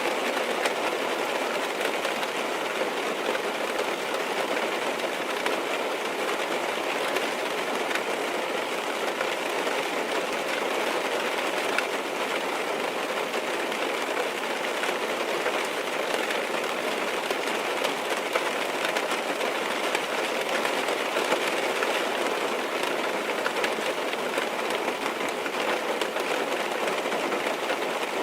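Rain tapping on a car's windows and body, heard from inside the car: a steady, dense patter of drops with no let-up.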